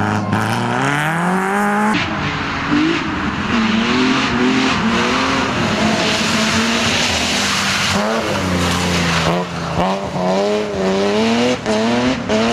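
Rally car engines revving hard under acceleration, the pitch climbing and dropping back with each gear change. The sound changes abruptly about two seconds in as a different car takes over, and the shifts come quickly near the end.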